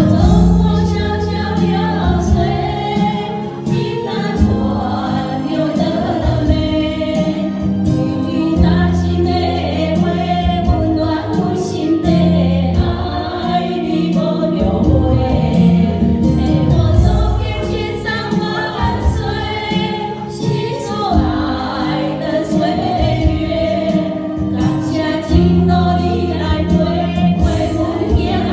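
A song: singing voices over instrumental accompaniment with held bass notes.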